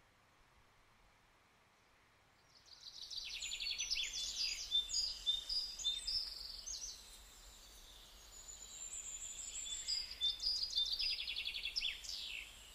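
Small songbirds singing outdoors: quick high chirps and trills that start after about two seconds of near silence, ease off midway, then pick up again near the end.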